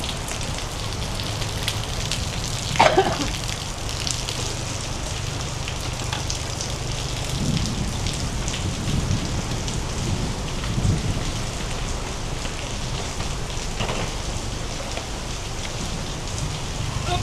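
Steady heavy rain falling on a surface, with a low rumble underneath.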